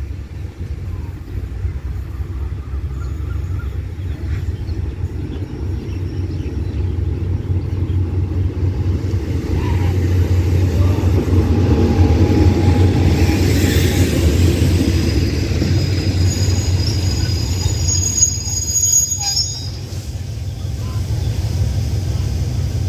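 Diesel locomotive hauling a passenger train arriving to stop: a steady engine and wheel rumble that builds as it approaches, is loudest as the locomotive passes about halfway in, then continues as the coaches roll by. A thin high squeal from the wheels and brakes rises over the rumble for a few seconds late on as the train slows.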